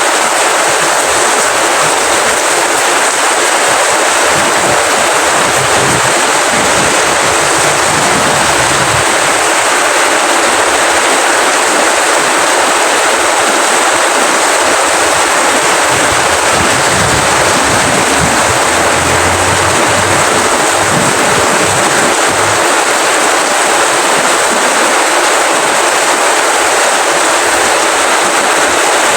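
Rain falling steadily, a loud, even hiss of raindrops with no break.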